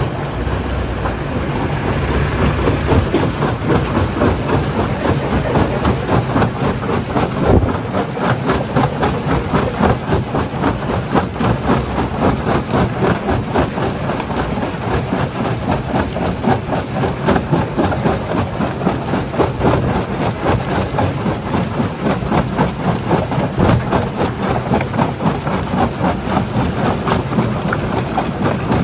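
Stone jaw crusher breaking rock: a dense, unbroken clatter and knocking of rock over a steady machine drone, with one louder knock about seven and a half seconds in.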